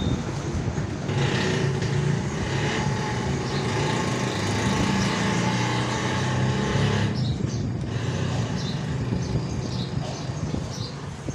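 Small DC electric motors and gearing of a homemade mini tractor running steadily, with a mechanical whir and a hiss. It gets louder about a second in and eases off in its higher part about seven seconds in.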